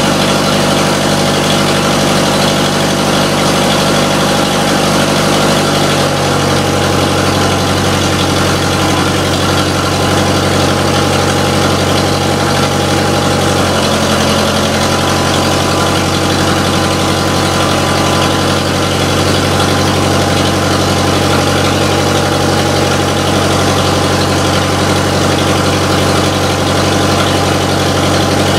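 International Harvester 504 tractor's gasoline engine running at a steady idle after a hard cold start from winter storage; its pitch shifts slightly twice, about six seconds in and again near the middle.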